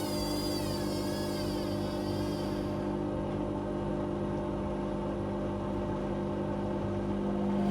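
Whirlpool Indiana 1400 washing machine running: a steady motor hum, with a high wavering whine that fades out about three seconds in.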